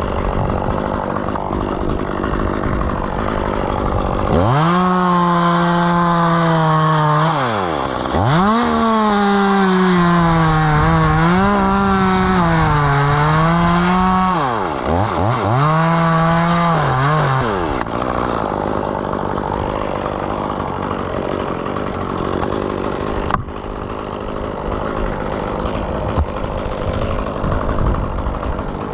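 Two-stroke chainsaw idling, then revved to full throttle for about thirteen seconds while cutting, its pitch sagging and recovering several times as the chain bites into the maple wood, then dropping back to idle.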